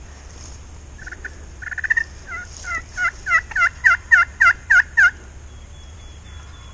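Wild turkey hen yelps made on a hunter's turkey call: a series of about fifteen short two-note yelps, settling into an even beat of about three a second and growing louder, ending about five seconds in.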